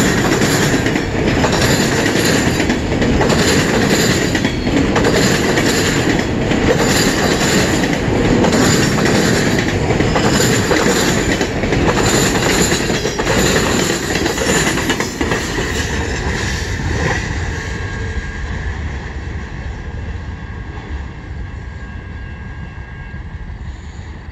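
Freight train cars (autoracks and boxcars) rolling past at close range, wheels clacking over rail joints at a steady rhythm. About two-thirds of the way through the last cars go by and the rumble fades away.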